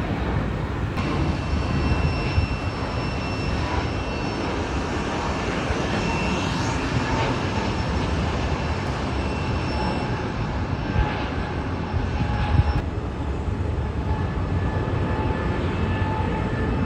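Airliner jet engines running: a steady rush of noise, heaviest in the low end, with faint thin whining tones above it.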